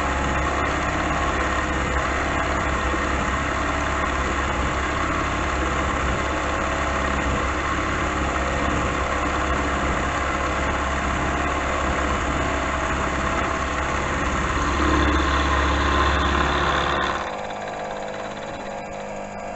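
Milling machine spindle running at about 900 RPM while the cutter takes a light, slow hand-fed pass through a steel block. The cutting gets louder about three quarters of the way through, then the sound drops off sharply near the end.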